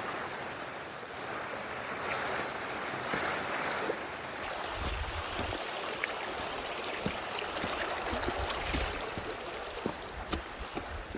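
Steady rushing noise, with a low, uneven rumble setting in about halfway and a few light clicks.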